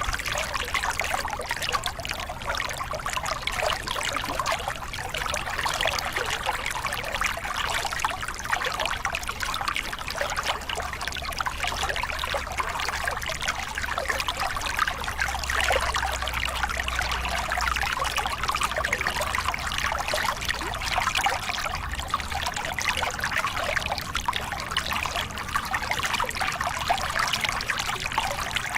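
A small cascade on a forest river: water tumbling and splashing steadily, with a low rumble underneath.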